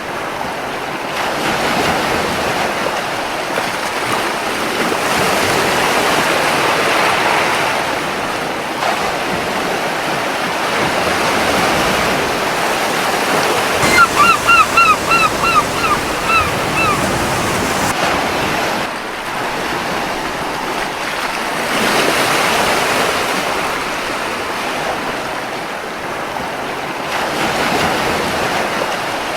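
Gentle surf washing ashore, the wave noise swelling and easing every several seconds. About halfway through, a seagull gives a quick run of about eight short calls, roughly three a second.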